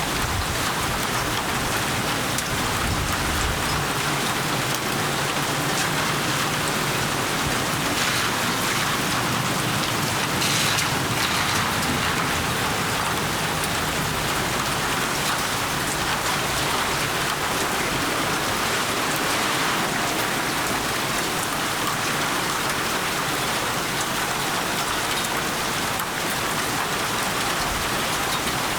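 Steady heavy rain falling and pattering on surfaces, an even hiss with no breaks.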